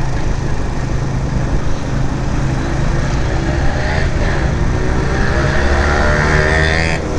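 Suzuki GS150 single-cylinder motorcycle engine running under way. It rises in pitch as it accelerates about halfway through, with a short drop near the end.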